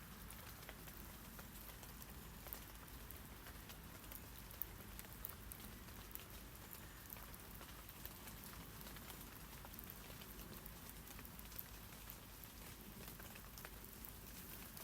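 Rain falling on tree leaves: a steady soft patter with scattered sharp drop ticks.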